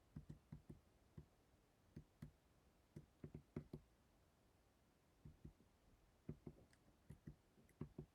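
Faint, irregular soft knocks and taps, about twenty of them in small uneven clusters, over quiet room tone; the source of the knocking is unexplained.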